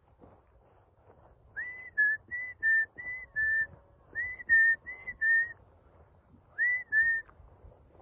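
Whistling in short phrases of clear two-note calls, a higher note dropping to a slightly lower one, repeated four times: two notes, then four, then four, then two.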